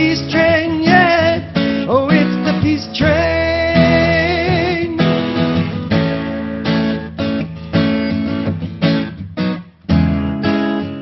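Strummed acoustic guitar under a man's voice holding long wavering wordless notes for the first few seconds. The voice then drops out and the guitar strums on alone, with a brief pause near the end.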